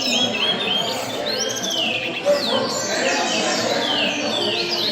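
Many caged songbirds chirping and singing at once, in overlapping downward-sweeping whistled notes, over a low background murmur.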